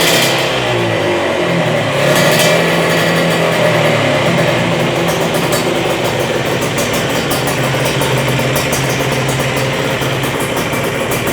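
Kawasaki Ninja R two-stroke single-cylinder engine running through a short aftermarket exhaust. It is revved briefly at the start and again about two seconds in, then idles steadily.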